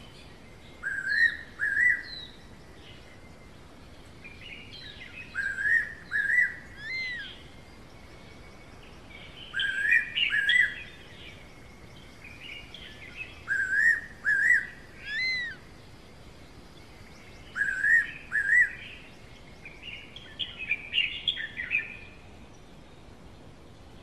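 Bird song: about six short phrases, each of two or three whistled notes that rise and fall near the same pitch, repeated every four seconds or so, with thin high chirps over some phrases.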